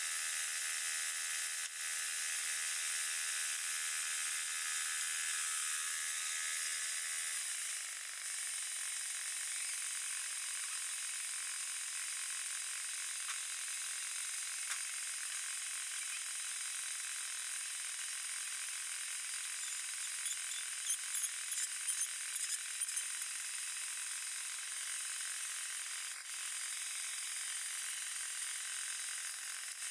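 Sawmill running steadily, its pitch shifting about seven seconds in, with a few light knocks a little after the middle.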